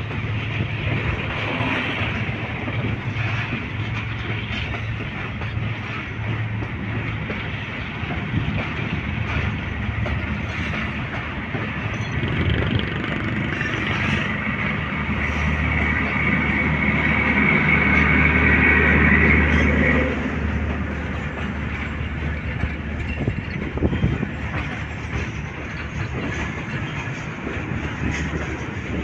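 A train running on the track with a steady rumble and low hum. The noise builds about halfway through to its loudest, with a deep drone and high steady whining tones, then drops away suddenly about two-thirds of the way in.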